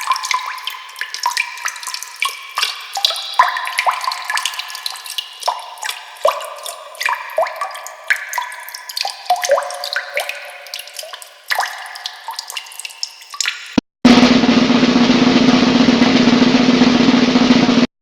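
Water-drip sound effect: an irregular run of short, pitched, echoing plinks of drops falling into water, several a second, some gliding up or down in pitch. About fourteen seconds in it cuts off and a different, loud, dense noisy effect starts abruptly.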